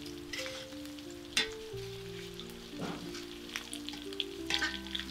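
Chicken pieces sizzling as they fry in oil in a steel wok, with a metal spatula scraping and clinking against the wok a few times as the pieces are turned and lifted out onto a strainer.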